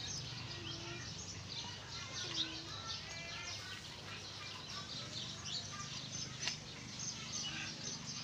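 Small birds chirping continually in quick short notes, over a low steady hum. A single sharp click sounds about six and a half seconds in.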